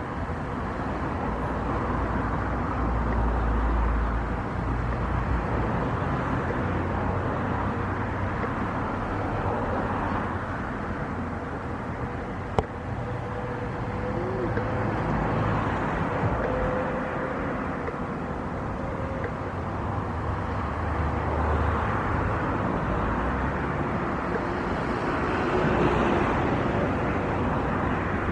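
Steady outdoor engine rumble that swells and eases, with one sharp click about twelve seconds in.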